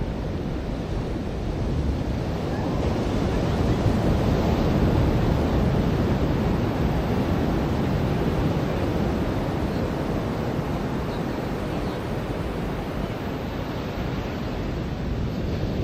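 Ocean surf washing onto a beach, swelling to a peak a few seconds in and then easing off, with some wind on the microphone.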